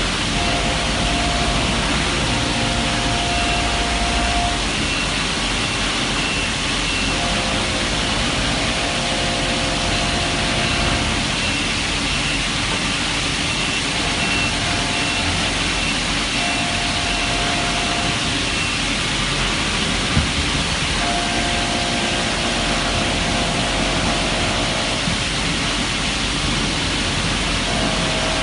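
CNC milling machine with a fourth rotary axis semi-finishing a bottle-feed timing screw: steady machine noise, with a cutting whine that comes and goes every few seconds as the tool works along the screw.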